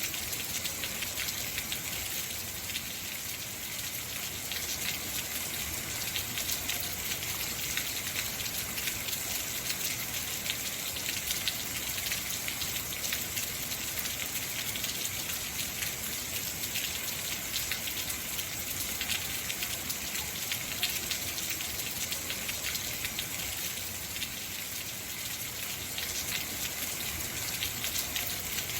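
Heavy rain falling steadily, a dense hiss of many drops hitting surfaces.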